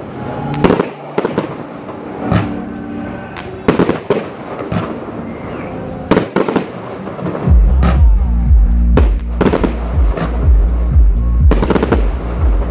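Fireworks bursting, a string of sharp bangs with some crackle, over music that picks up a heavy bass beat about halfway through.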